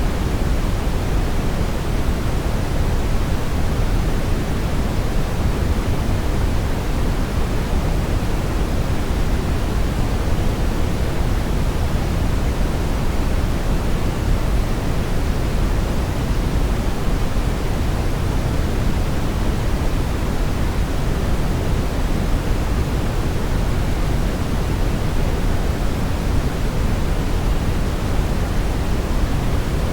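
Steady synthetic brown noise: an even, deep hiss that is strongest in the low end and falls away toward the highs, with no change.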